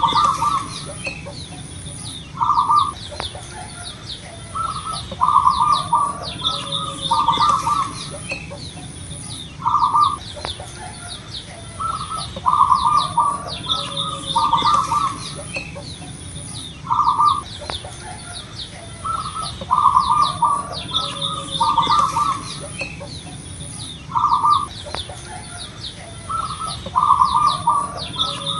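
Zebra dove (perkutut) cooing over and over in short, pulsed phrases every two to three seconds. Smaller birds chirp more faintly and higher behind it.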